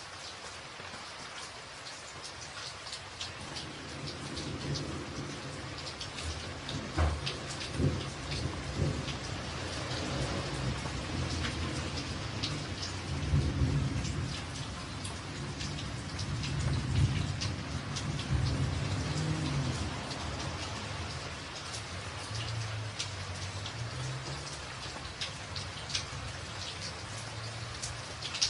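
Rain falling on a tin roof, with sharp ticks of individual drops. A few seconds in, a long low roll of thunder builds. It swells several times through the middle and dies away near the end.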